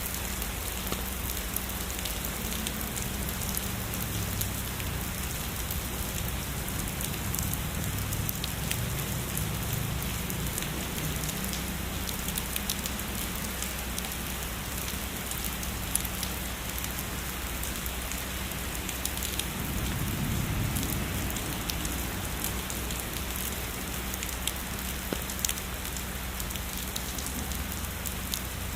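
Steady heavy rain falling on a surface, with many individual drops ticking through the hiss. A low rumble swells briefly about twenty seconds in.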